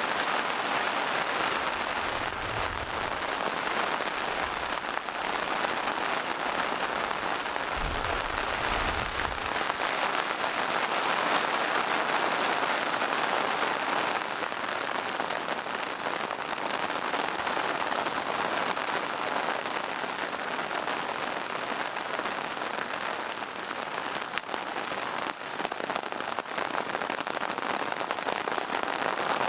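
Steady rain falling in a forest, a dense even patter of drops on leaves and rocks, with two brief low rumbles, one about two seconds in and one about eight seconds in.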